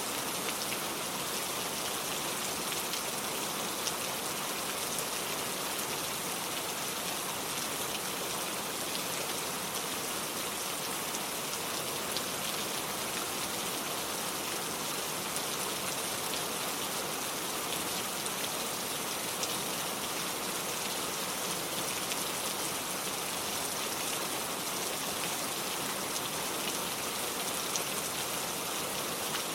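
Steady rain falling on hard surfaces, a constant hiss dotted with the fine ticks of individual drops.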